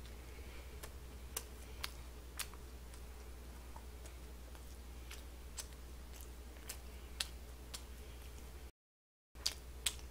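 Close-miked mouth sounds of a person chewing a chicken skewer: faint, scattered sharp clicks and smacks about every half second, over a low steady hum. The sound drops out entirely for about half a second near the end.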